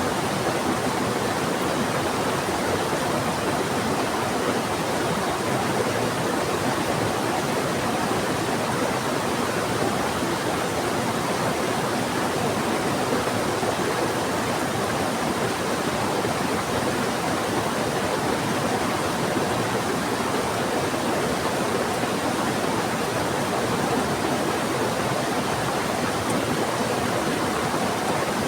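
Fast-flowing river and heavy rain: a steady, even rush of water.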